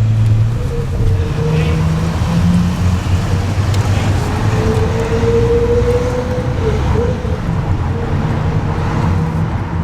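Car engines running steadily in city traffic, with a low engine note and road noise throughout.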